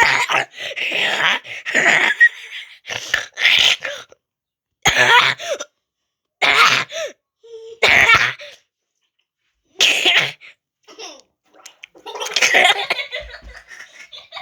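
A girl laughing in spluttering bursts with water in her mouth, coughing and sputtering so that her laughter sounds gargled, as if she were under water. The bursts come again and again, with short silences between them.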